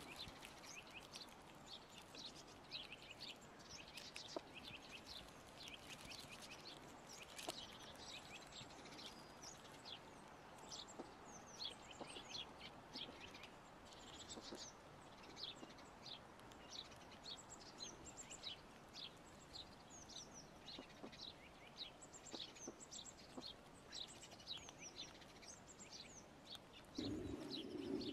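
Small birds chirping faintly in the background, many short high calls at a few per second. About a second before the end, a louder low rushing noise comes in.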